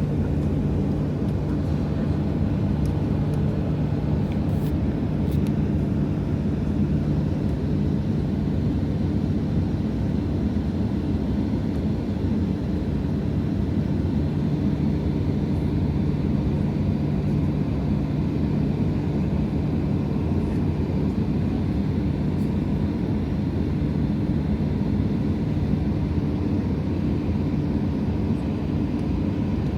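Airliner cabin noise: the steady drone of the plane's engines and airflow, with a constant low hum.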